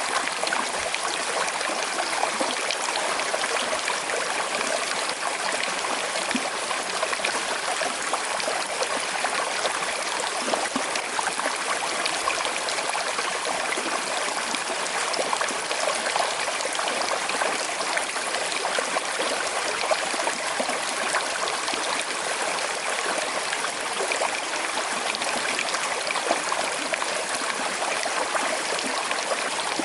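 Small river with a slight current flowing over stones: a steady babbling, trickling rush with many small splashes.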